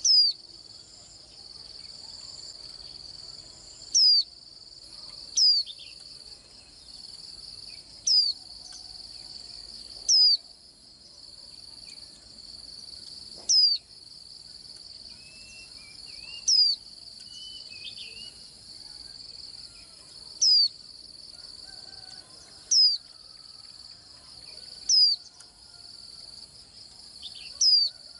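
A white-eye giving short, sharp, downward-sliding call notes, loud and about every two to three seconds, over a steady high-pitched trill of crickets.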